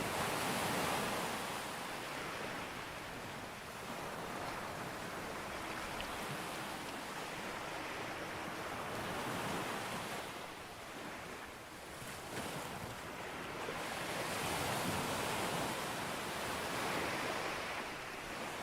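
Sea waves breaking and washing up a beach: a continuous surf rush that swells and eases every few seconds.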